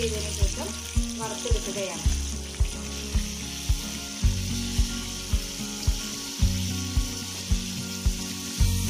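Chicken pieces sizzling as they fry in hot oil in a non-stick pan, a steady hiss. Background music with a steady beat, about two a second, plays over it and is the loudest part.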